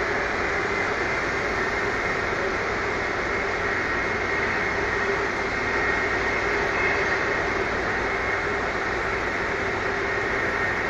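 Airbus A330-300's Pratt & Whitney PW4000 jet engines running steadily at taxi power: an even rush with a steady whine.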